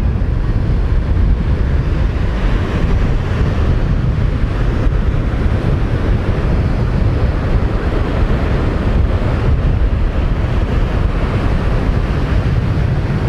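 Strong wind buffeting the microphone with a heavy low rumble, over the wash of rough surf breaking on the shore.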